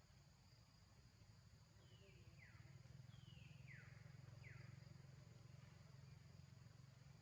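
Faint outdoor ambience: three or four short animal calls, each sweeping down in pitch, come about two to five seconds in, over a steady low hum and a faint high insect drone.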